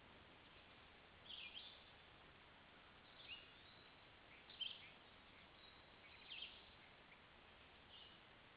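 Songbird calls in woodland: about five short, high chirps and brief trills a second or two apart, over a faint steady hiss.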